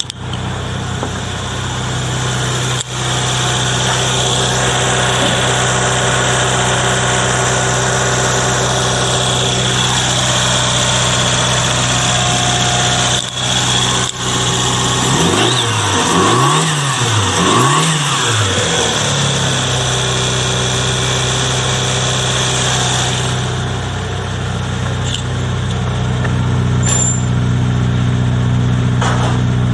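Daihatsu Copen's JB-DET 659 cc turbocharged inline-four idling steadily, revved in quick blips about halfway through, then settling back to a steady idle.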